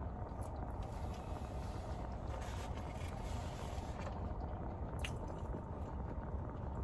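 Close-up chewing and biting sounds of someone eating, with a few sharp mouth clicks, over a steady low hum.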